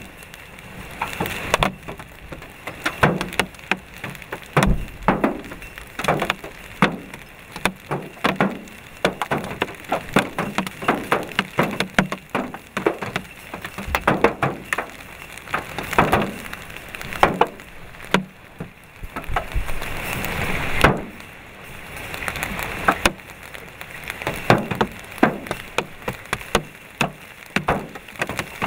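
Large hailstones striking hard surfaces: irregular sharp cracks and knocks, several a second, over the steady hiss of rain, with a heavier rush building about twenty seconds in.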